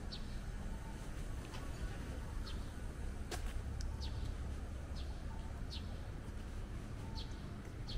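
A small bird chirping again and again, short high falling notes about once a second, over the steady low rumble of city street noise. A single sharp tick a little over three seconds in.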